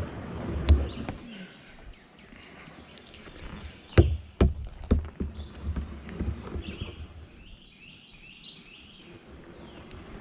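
Kayak being paddled and handled, with a few sharp hollow knocks, the loudest a quick cluster about four to five seconds in.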